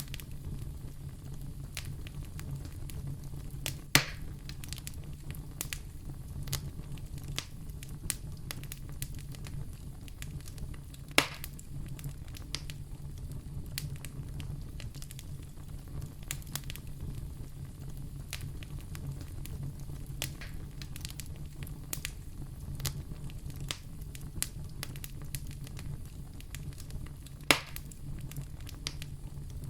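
Fire burning in a fireplace: a steady low rumble with constant small crackles, and three louder pops about four seconds in, about eleven seconds in, and near the end.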